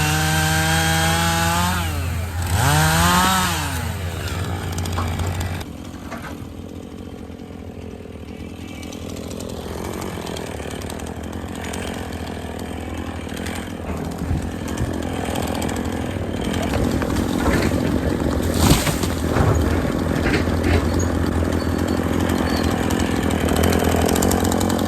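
Chainsaw running at full throttle, its pitch falling about two seconds in, then a brief rev up and back down. After that, quieter, rougher engine and cutting noise that grows louder again, with one sharp crack near the end.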